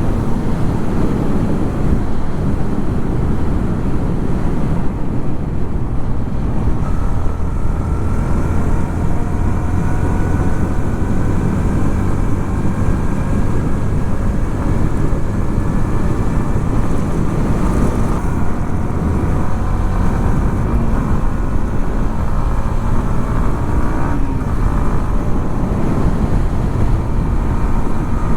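Yamaha XSR 155's single-cylinder engine running steadily under a heavy low rumble, its pitch rising slowly for several seconds partway through.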